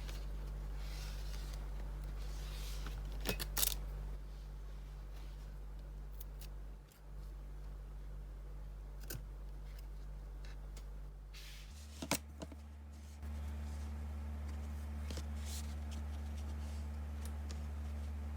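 Scissors cutting felt, with soft handling noises and a few sharp clicks over a steady low hum.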